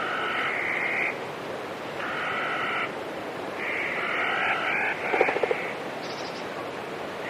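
Animal calls, each about a second long and repeating roughly every two seconds, over a steady rushing background. A quick run of clicks comes about five seconds in.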